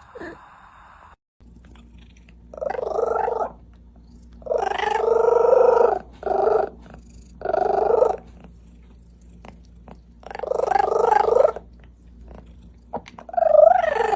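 A cat meowing loudly and repeatedly: six drawn-out calls, the longer ones over a second, with short pauses between.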